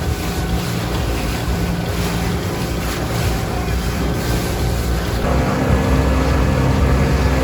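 Gladiator 9.9 outboard motor running with the boat under way, with water rushing past the hull and wind on the microphone; the engine's pitch steps up slightly about five seconds in.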